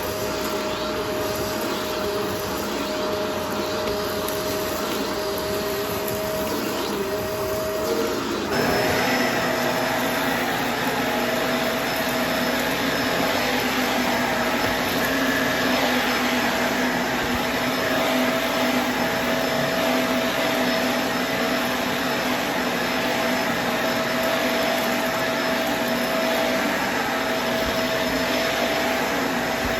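Vacuum cleaner running steadily; about eight seconds in its pitch shifts and it gets slightly louder and brighter, with a thin high whine added.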